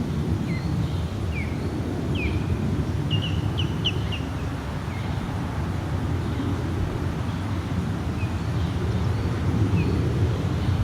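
Deep rumbling of a departing jet airliner's engines, steady and low. A small bird chirps short, quick notes over it, a cluster of them a few seconds in and a few more later.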